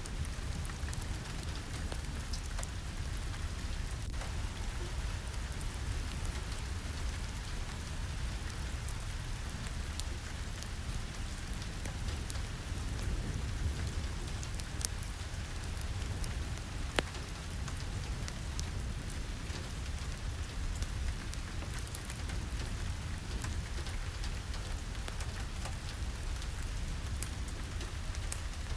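Steady rain falling, with a low rumble underneath and a few sharp clicks scattered through it, the loudest about 17 seconds in.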